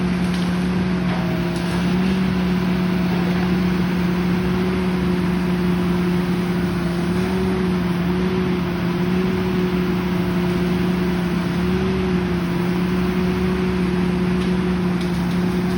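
Tree-trimming machinery's engine running steadily at a constant, fairly high pitch, with only slight wavers.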